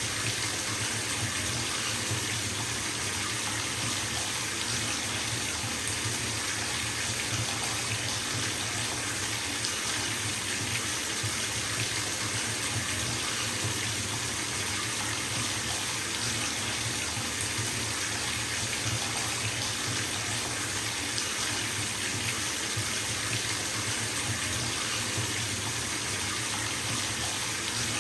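Water running steadily from a bathtub tap into the tub as it fills: an even, unbroken hiss with a low rumble beneath.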